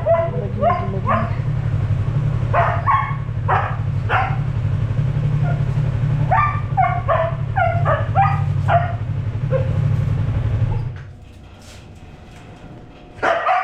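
A dog barking and yipping excitedly in short, repeated bursts over the steady idle of a Yamaha MT-03's parallel-twin engine. The engine is switched off about eleven seconds in.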